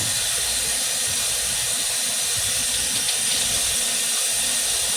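Water running steadily from a kitchen tap, a constant rushing hiss.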